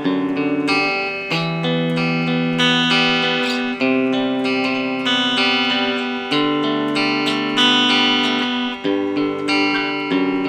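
Mexican Fender Stratocaster electric guitar played clean through a Roland Micro Cube amp with the gain at maximum and the selector on the bridge pickup. Chords are picked and left to ring, with a new chord struck about every one to two seconds.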